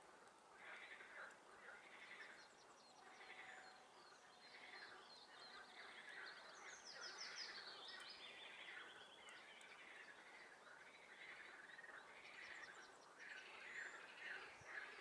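Faint chorus of frogs calling over and over, with songbirds singing above them; a trilling bird song stands out about six seconds in and again near the end.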